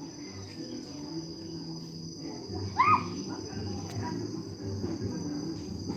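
Crickets trilling steadily over a low background murmur. About three seconds in comes one short, loud whistle-like call that rises and falls in pitch.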